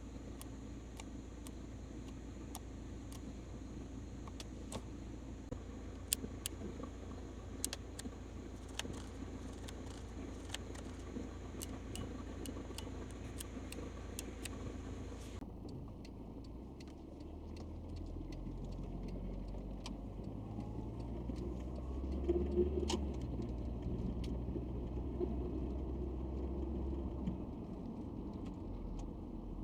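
Citroen XM being driven, heard from inside the cabin: a steady low hum with scattered clicks and rattles, like keys jangling. Past halfway the engine note grows louder and climbs in steps as the car accelerates through the gears.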